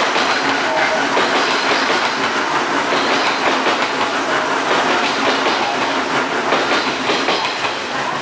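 Odakyu 4000 series electric commuter train running along the track: loud, steady noise of wheels on rail throughout.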